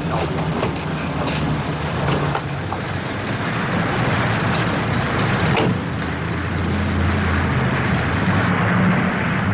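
Car engine running as the car is driven, a steady hum whose pitch shifts in the second half, with a single sharp click a little past the middle.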